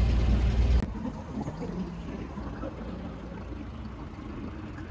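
Car engine running, heard from inside the cabin; about a second in the sound drops abruptly to a quieter, steady engine hum.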